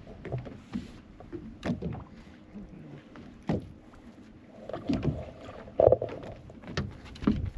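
Scattered knocks and thumps of handling on a fishing boat, over a low rumble of water and hull, the sharpest knock nearly six seconds in.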